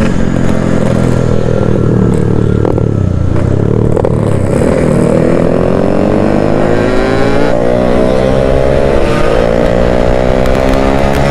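Yamaha RX King single-cylinder two-stroke engine under way: the revs drop over the first few seconds, then climb steadily from about four seconds in to the end as the bike accelerates.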